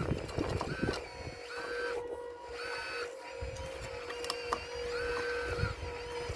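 Electric motors of a radio-controlled Caterpillar model excavator whining in about five short bursts as the machine moves, over a steady hum, with a couple of sharp knocks about two thirds of the way in.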